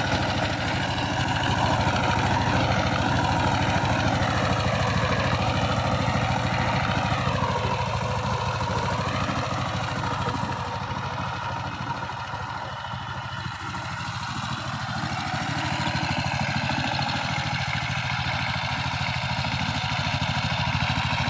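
Power tiller's single-cylinder diesel engine running steadily with an even rapid chug. It eases off a little about halfway through, then comes back up.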